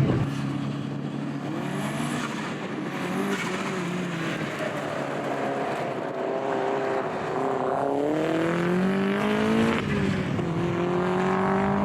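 Rally car engine being driven hard, its note climbing and dropping over and over as it is taken up through the revs and shifted, with a long strong climb about eight seconds in.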